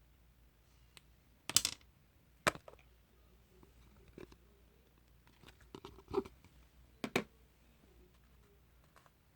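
Slime being pressed and stretched by hand, giving about four sharp pops and crackles, the loudest about one and a half seconds in and two near the middle of the stretch, with quiet handling in between.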